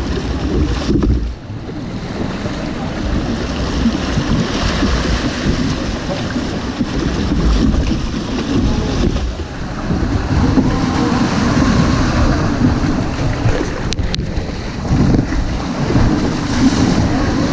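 River water rushing and splashing around a boat, with wind buffeting the microphone.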